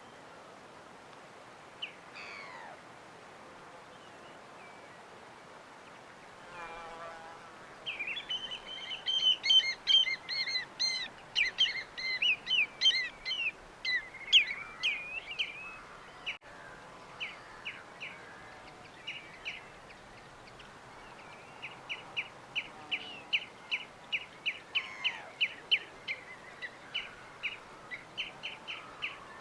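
Small birds chirping over a faint steady background hiss. Several birds chirp densely together for a while, then one bird keeps repeating a short, high chirp about twice a second.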